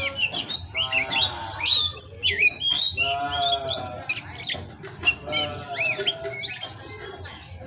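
Oriental magpie-robin (kacer) singing a fast, varied song of high sweeping whistled notes, mixed with lower, harsh grating calls about a second in, around three seconds and again near six seconds.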